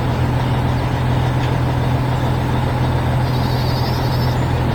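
Large farm harvester's engine running with a steady low drone.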